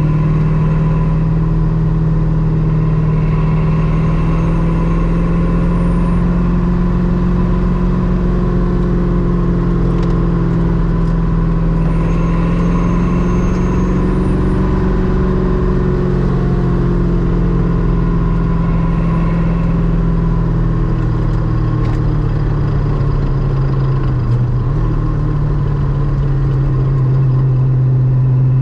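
Ultima RS kit car's GM LS-series V8 running under way on the road, a steady drone whose pitch rises and falls gently with the throttle.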